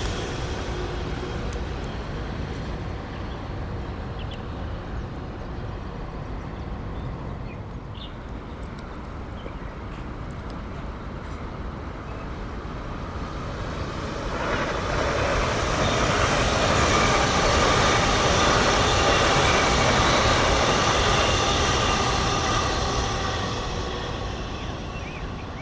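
A train running past on the line: the running noise eases in the first seconds, then swells from about halfway through with a whine over the rumble, stays loud for several seconds and fades near the end.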